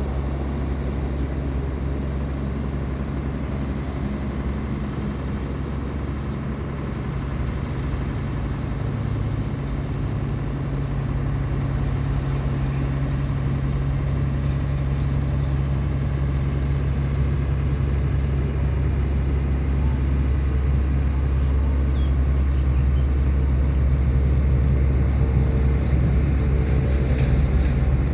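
Small wooden tugboat's engine running steadily under load while towing four heavy pontoons: a constant low drone, growing slightly louder toward the end.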